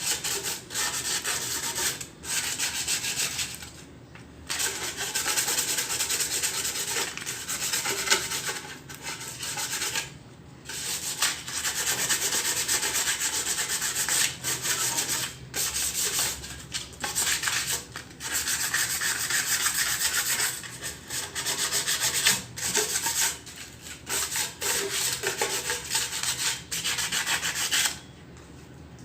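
Sandpaper rasping over a metal exhaust manifold, sanding off rust, in runs of a few seconds broken by short pauses; the sanding stops about a second before the end.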